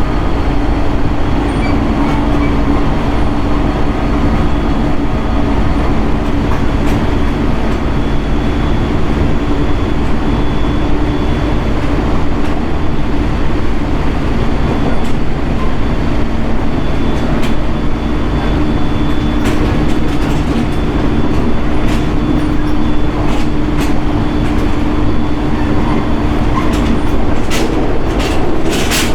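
Interior running sound of a JR East 701 series electric train car under way: a steady rumble of wheels on rail with a continuous motor and gear hum. A few sharp clicks of the wheels over rail joints come near the end.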